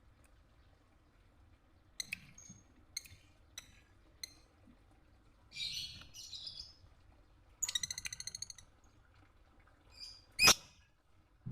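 Lovebird calling: short sharp chirps, a scratchy chatter about halfway, a rapid buzzy trill about two-thirds through and a loud sharp shriek near the end.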